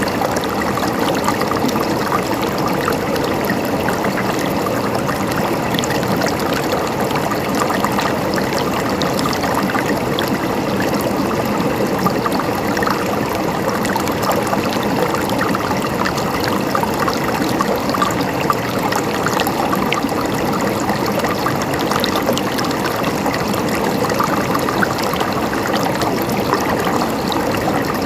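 Running water gurgling and trickling in a steady, unbroken rush, with small splashes scattered through it.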